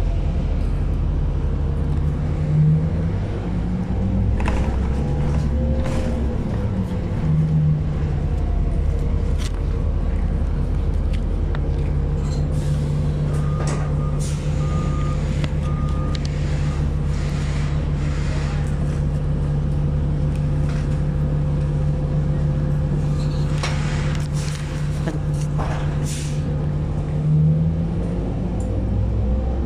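City bus heard from inside the cabin: the engine and drivetrain drone steadily with a low rumble, rising and falling in pitch over the first several seconds. Three short beeps sound about halfway through. Rattles and hissing follow later, with a swell in the engine sound near the end.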